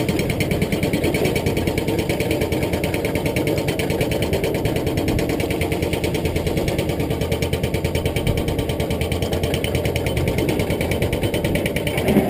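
Caterpillar excavator's diesel engine running steadily with an even, fast pulse, picking up slightly just before the end.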